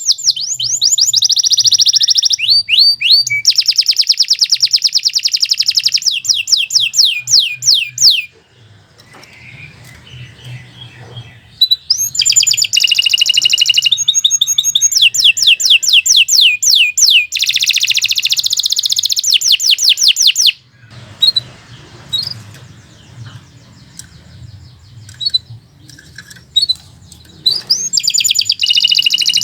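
Domestic canary singing long, rapid trills and rolling phrases of fast repeated high notes. The song comes in two long bursts of about eight seconds each, separated by quieter stretches, and starts again near the end.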